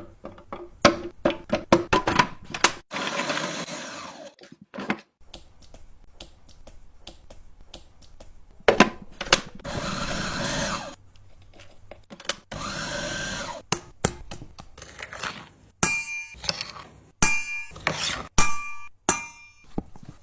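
An electric chopper or blender grinding in three short bursts of about a second each, with knocks and clatter of utensils and food between them; near the end come several ringing clinks.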